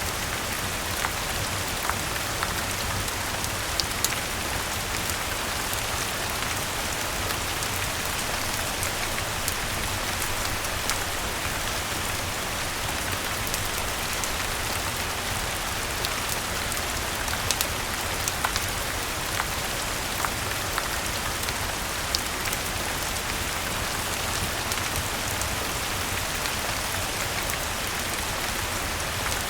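Steady rain falling, mixed with a fireplace's crackling: scattered sharp pops and ticks over the even hiss of the rain.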